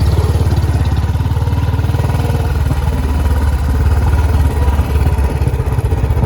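Royal Enfield Bullet's single-cylinder engine running as the motorcycle rides along, a steady low rapid thump with an even rushing hiss over it.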